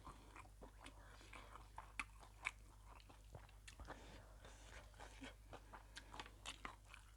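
Faint close-up chewing and biting: a steady, irregular run of small crunches and mouth clicks from a person eating.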